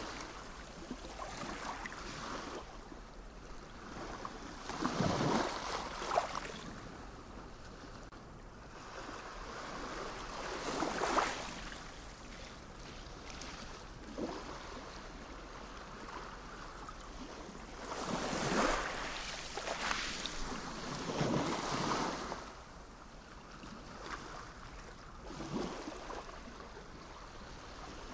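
Sea waves breaking and washing in, a steady wash of surf that swells and fades in louder surges every few seconds.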